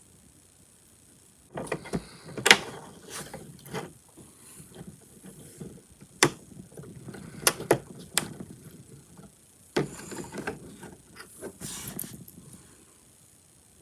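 Small plastic HO scale model-kit parts being handled and fitted on a tabletop as the couplers and trucks go onto a boxcar: irregular clicks, taps and rustling with a few sharp clicks, quiet at the start and dying away near the end.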